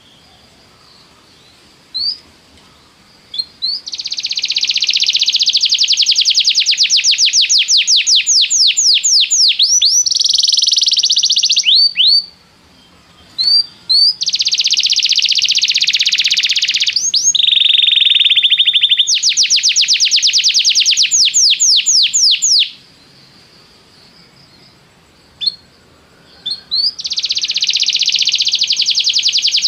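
Domestic canary singing long rolling trills of rapidly repeated notes, in several phrases separated by short pauses with single chirps. One phrase shifts to a lower, steadier trill near the middle.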